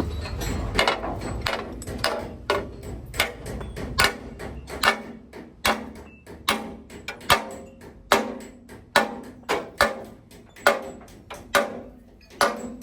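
Hammer blows on metal in a steady working rhythm, roughly one every 0.7 seconds, each strike ringing briefly.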